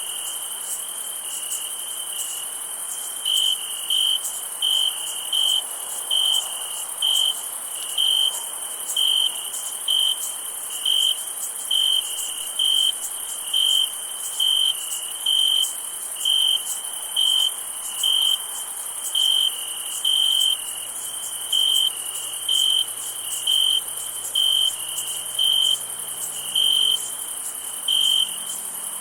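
Summer-night insect chorus: a steady high-pitched insect trill under one close cricket chirping in short, clear, evenly spaced pulses a little over once a second, beginning about three seconds in.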